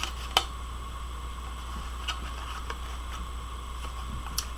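A few light clicks and taps of paper cards being handled, the sharpest about half a second in, over a steady low electrical hum.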